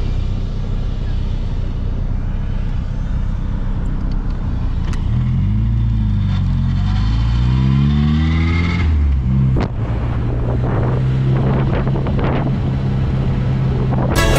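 Car engine and road rumble while driving. The engine note climbs steadily in pitch for a few seconds, then a sharp click comes about two-thirds of the way in and the pitch drops back to a steady low hum.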